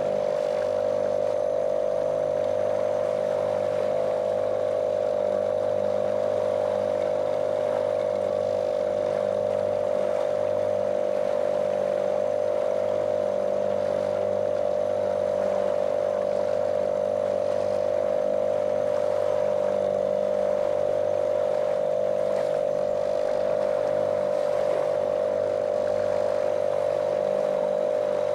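Small motorboat's outboard motor running at a steady cruising speed, a monotonous drone with a strong steady whine, over the hiss of water along the hull.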